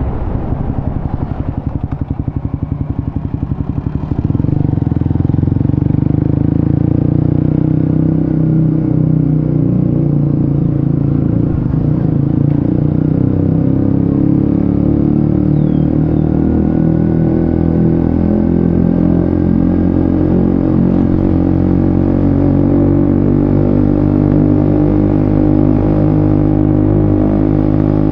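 Suzuki GSX-S150's single-cylinder four-stroke engine running through a Quinze Big Volume aftermarket exhaust. It pulses at low revs at first, then about four seconds in it gets louder and settles into a steady run with small rises and falls in pitch as the bike is ridden.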